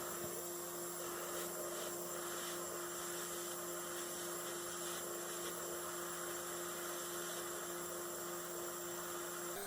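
A steady hum holding a few fixed pitches over a faint hiss.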